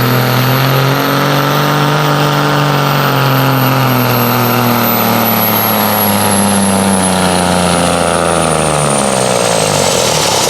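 Pulling truck's engine held at full throttle under load from the sled, its pitch rising slightly at first and then falling steadily as the engine is dragged down. A thin high whistle drops in pitch along with it near the end.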